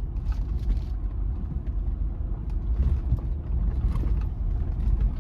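A motor vehicle running, with a steady low rumble, cut off suddenly near the end.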